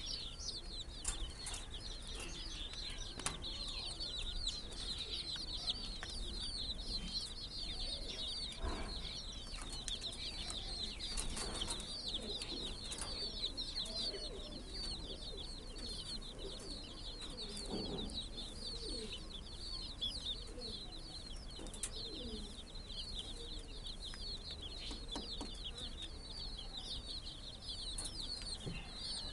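A flock of baby chicks peeping without pause, many short high chirps overlapping into a continuous chorus, with a few scattered clicks.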